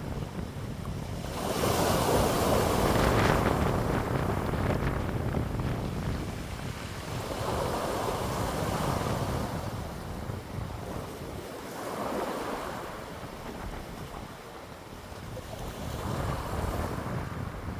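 Wind blowing in gusts, rising and falling in about four swells with the strongest near the start, over a steady low rumble of wind buffeting the microphone.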